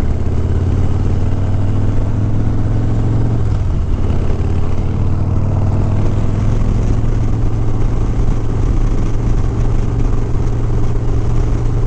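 Harley-Davidson Sport Glide's V-twin engine running steadily while riding at speed, with wind and road noise.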